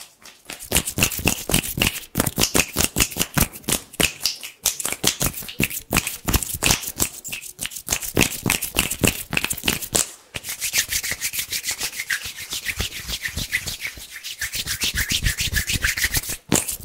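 Bare hands rubbing together fast and hard close to the microphone, a dry, crisp swishing at about four or five strokes a second. From about ten seconds in the strokes turn lighter and higher.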